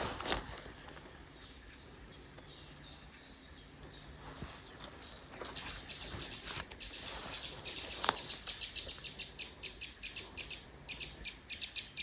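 Small birds chirping, with a rapid series of short, high repeated notes through the second half. A sharp click sounds about eight seconds in.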